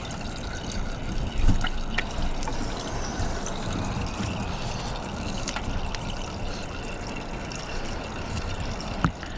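Used engine oil running in a steady trickle out of the lawn tractor engine's drain nipple, with a few light clicks from hands working nearby.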